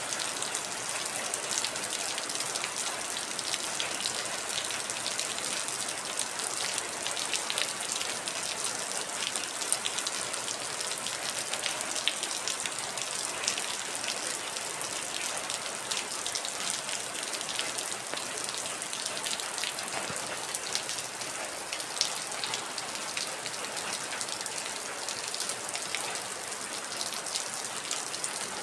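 Heavy rain falling steadily: a dense, even hiss with many individual drops ticking on a surface.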